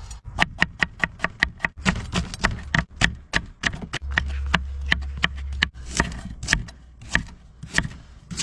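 Kitchen cleaver chopping on a cutting board: a long run of sharp, ringing strikes, about three a second.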